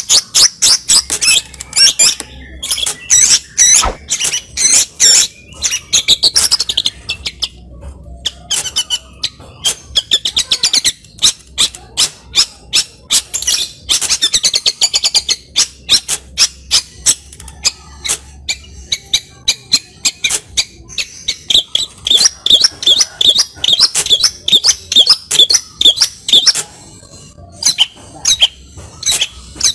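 Long-tailed shrike singing loudly in a fast, chattering stream of short high notes packed with imitations of other birds' calls, pausing briefly a few times.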